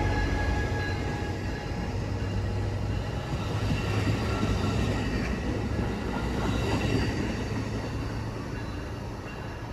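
A train running past on the tracks: a steady low drone and rumble of wheels on rail, slowly fading toward the end, with a few thin high squeal tones in the first couple of seconds.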